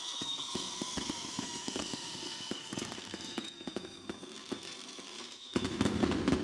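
Fireworks crackling and popping, many small sharp cracks in quick succession. Near the end, loud music starts over them.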